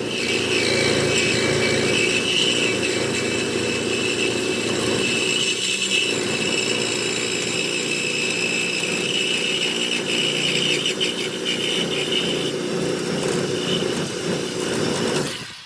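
Power saw cutting through a truck's steel exhaust pipe to take the muffler off, running continuously and then stopping near the end.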